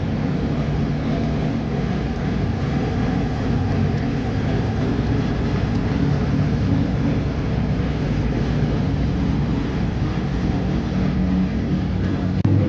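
Chevrolet Chevy engine running steadily through an open, unmuffled exhaust, a low rumble with no revving.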